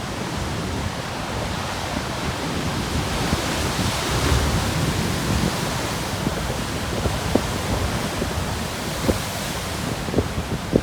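Large ocean waves breaking and churning on a rocky shore, with a continuous roar of surf that swells about four seconds in. Wind buffets the microphone, adding low thumps near the end.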